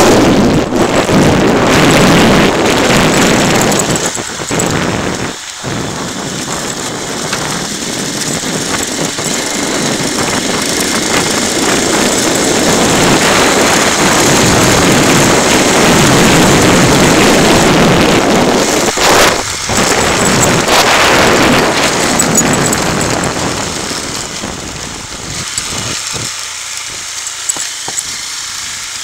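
Motorcycle riding on the road: the engine running under heavy wind noise on the microphone. The noise eases off near the end.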